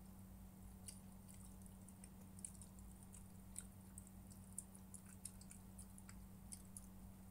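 Near silence with faint, scattered clicky chewing and mouth sounds of someone eating, over a low steady electrical hum.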